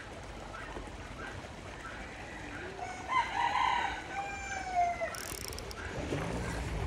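A rooster crowing once, a call of about two seconds with a falling note at the end. A faint short chirp repeats about every half second behind it.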